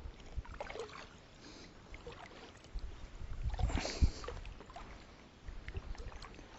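Faint sounds of a fishing kayak on the water: scattered light knocks and water sounds, with a louder splash and thump about four seconds in.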